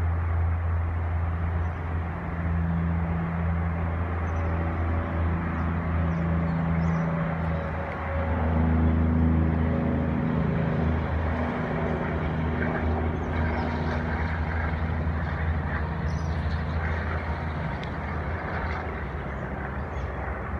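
Diesel-electric freight locomotives (Pacific National NR class) passing with their engines droning at a low, steady pitch, while container wagons rumble over a rail bridge. The engine note shifts about eight seconds in.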